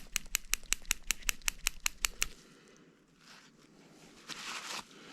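Spring-loaded valve plunger in an SST transmission mechatronics unit being pushed in and out rapidly, clicking about seven times a second as dirty oil is flushed out; the clicking stops about two seconds in. A brief hiss follows near the end.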